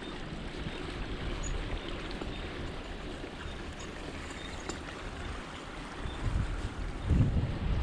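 Wind buffeting the microphone: a steady rushing noise with low rumbling gusts near the end.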